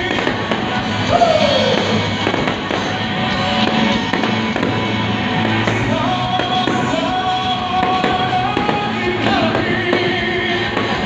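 Aerial fireworks bursting and crackling, heard together with music and singing.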